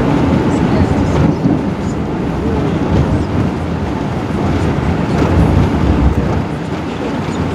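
Cabin noise inside an Airbus A380 as it taxis: a steady low rumble from the engines and the landing gear rolling along the taxiway, with faint knocks now and then.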